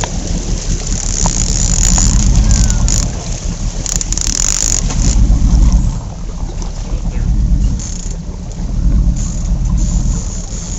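Boat engine running steadily with wind noise on the microphone. The loudness swells and eases a few times.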